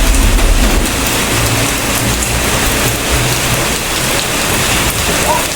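Steady rain falling, a dense even hiss. A low rumble underneath fades out about half a second in.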